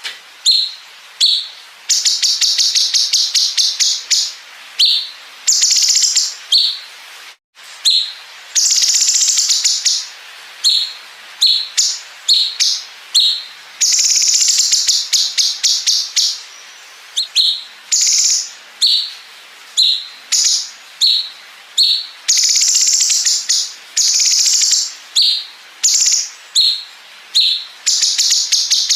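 Cucak cungkok song with a long 'bren' fill: high-pitched rapid trills and rattling bursts, each lasting up to a couple of seconds, repeated over and over with short gaps. A brief dropout cuts the sound about seven and a half seconds in.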